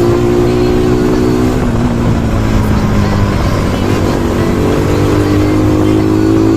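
Bajaj Pulsar NS200's single-cylinder engine running at a steady pitch while being ridden, easing off about a second and a half in and pulling again from about four seconds in.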